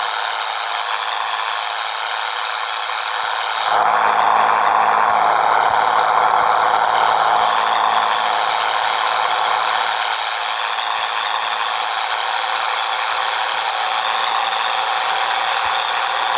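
Scania 113 truck's six-cylinder diesel running on the move, with a steady high whine over a rattling, clattering noise. The low engine note is missing at first and comes back strongly about four seconds in.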